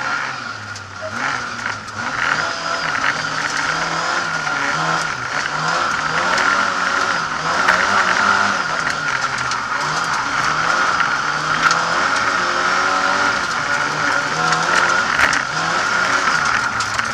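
Lada 2101 rally car's engine heard from inside the cabin, revving up and dropping back again and again as it is driven hard through gear changes, with a steady high whine throughout.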